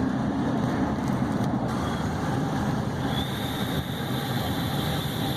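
Steady engine and road noise of a vehicle driving, heard from inside the cabin, with a faint high whine in the second half.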